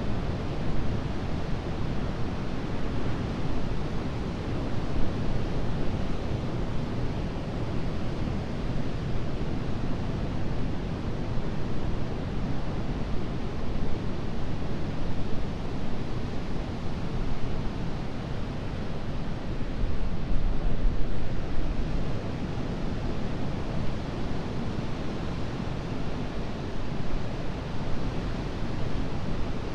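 Atlantic ocean surf breaking and washing onto a sandy beach: a steady rush of water that swells and eases as the waves come in, loudest about two thirds of the way through.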